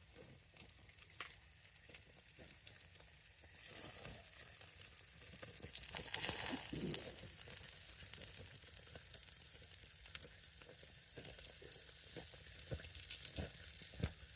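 Hamburger patties sizzling on a grill: a steady hiss with small crackles, louder for a few seconds in the middle.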